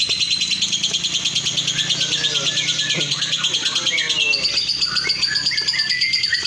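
Lovebird giving a long, unbroken rapid chattering trill, the 'ngekek' song that lovebird contests judge, with other birds chirping and voices murmuring underneath.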